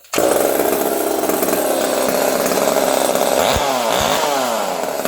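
Two-stroke chainsaw engine comes in suddenly and runs at high speed. Its pitch dips and picks up twice about three and a half seconds in. It is running properly now that its clogged fuel tank vent has been blown clear.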